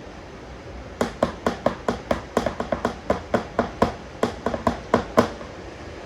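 A quick run of about twenty sharp, hard taps, roughly five a second, starting about a second in and stopping suddenly after some four seconds.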